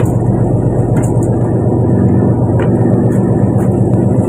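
Fishing boat's engine running steadily, with a few faint clicks.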